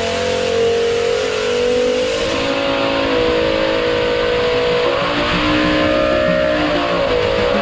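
Race car engine screaming at high revs, with a high, steady pitch; the revs dip briefly and climb back about five seconds in and again near the end.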